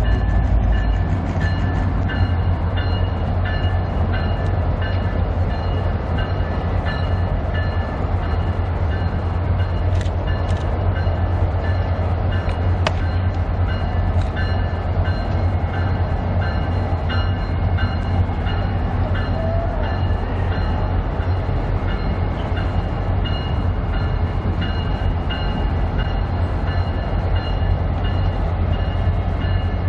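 Diesel locomotives and a passenger train rolling steadily across a railway viaduct: a continuous deep engine rumble with the rattle and clicking of wheels on the rails.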